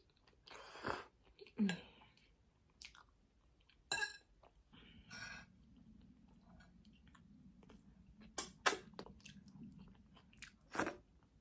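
Close-up eating sounds: scattered wet smacks and chewing clicks of a mouth working through spaghetti, with a faint low hum in the background from about five seconds in.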